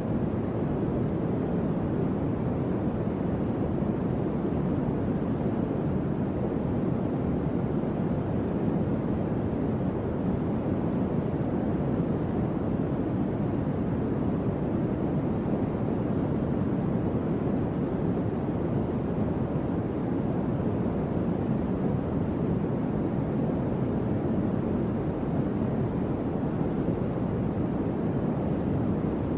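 Electric fan running steadily: an even, low-pitched rush of air with no tones, clicks or changes.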